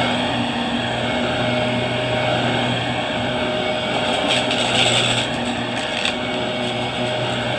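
Vacuum cleaner running steadily with a motor hum and airflow hiss. Between about four and six seconds in, a louder stretch of high hiss with crackles.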